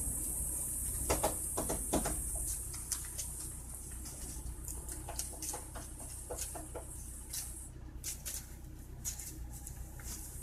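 Kittens playing: scattered light taps, scratches and clicks of paws and claws, a few louder ones between one and two seconds in, over a steady low hum and hiss.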